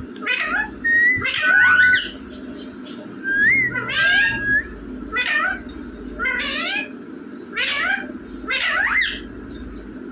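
Pet Indian ringneck parrot giving a series of short, shrill calls about once a second, a couple of them drawn out into whistled notes.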